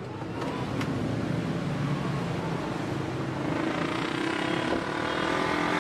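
A motor vehicle engine running steadily with a low hum, growing slightly louder near the end.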